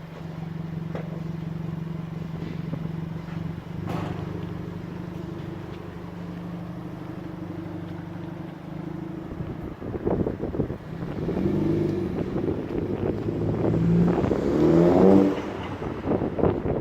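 Car engine breathing through a custom stainless-steel exhaust with a Magnaflow muffler: idling steadily, then revved up and down several times from about ten seconds in, the loudest rev near the end.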